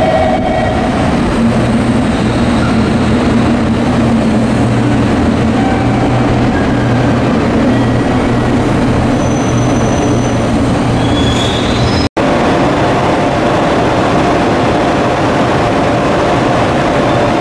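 A passenger train pulling out and running past on the platform track, wheels and running gear clattering with a steady low drone and a slightly rising hum, with some wheel squeal. After a cut about 12 s in, a steady hum from a JR ED76 electric locomotive standing at the head of a freight train.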